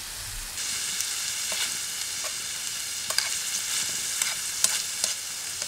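Food sizzling in a pan over a campfire: a steady sizzle that sets in about half a second in, with scattered pops.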